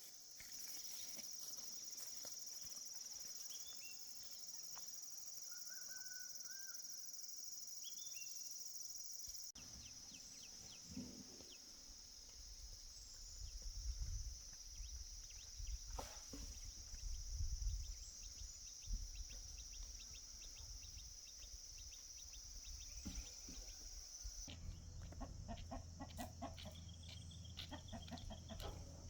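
Farmyard ambience: chickens clucking over a steady high insect drone, with a few short bird chirps. The scene changes about a third of the way in and again near the end, where a steady low hum and rapid ticking come in.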